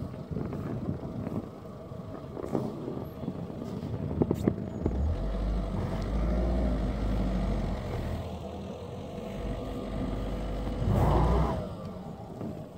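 Car engine revving while the front wheels on Nokian WR D4 winter tyres spin in snow, failing to pull away on an uphill slope. The revving and rumble build from about five seconds in, are loudest near the end, then drop away, with a few sharp knocks earlier on.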